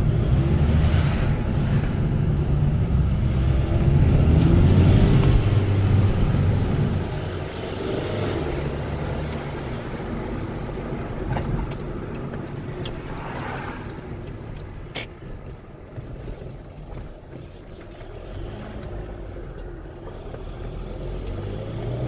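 Volkswagen 2.0 TDI (BKD) turbo-diesel engine pulling a car along under power, its pitch rising about four to six seconds in, then easing off and running quieter from about seven seconds on.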